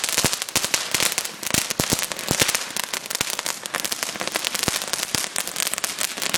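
Small handheld consumer firework going off, a continuous dense crackle of sharp irregular pops and snaps.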